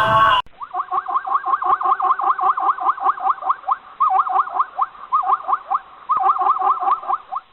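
A brief end of music, then an animal giving a rapid series of short, rising squeaky calls, about five a second, in three runs broken by two short pauses.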